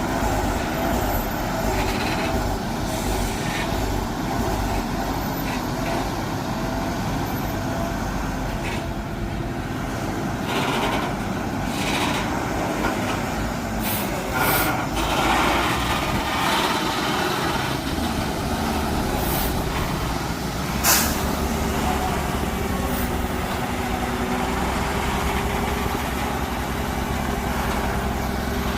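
Heavy truck engine running steadily under load, with several short sharp bursts over it, the loudest about three-quarters of the way through.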